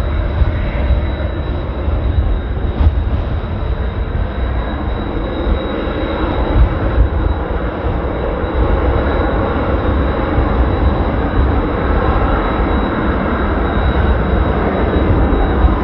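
Jet noise from Blue Impulse's Kawasaki T-4 jet trainers, a steady rushing sound that grows louder over the second half. Heavy wind buffeting on the microphone rumbles underneath.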